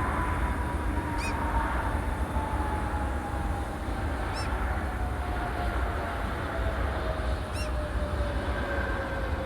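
Jet airliner engines running with a steady roar and a single whine that falls slowly in pitch as the aircraft moves away. A short high chirp repeats about every three seconds over it.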